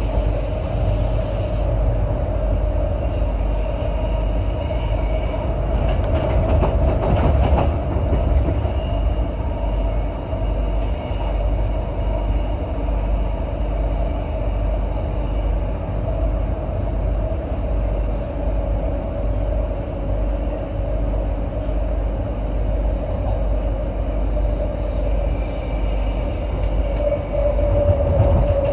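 Brisbane suburban electric train running between stations, heard from inside the carriage: a steady rumble of wheels on track under a steady hum, with a short burst of noise about seven seconds in.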